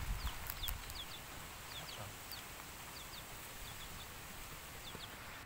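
Small birds chirping: short, falling high chirps, a few every second, over a steady outdoor hiss. Low rumbling and a few clicks in the first second as the wire cage trap is handled.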